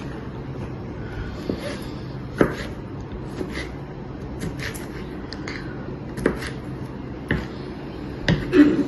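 Kitchen knife cutting vegetables on a chopping board: irregular sharp taps about once a second, with a quick few near the end.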